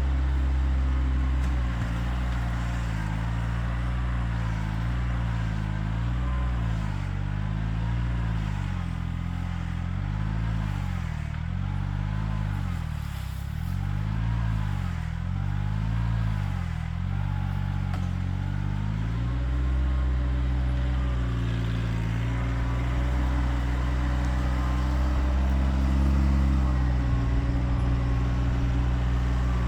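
Kioti tractor's diesel engine running, its speed rising and falling repeatedly for about ten seconds in the middle, then holding steady.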